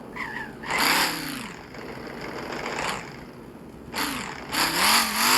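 Vehicle engine and road noise swelling twice, about three seconds apart, its pitch bending down as each fades.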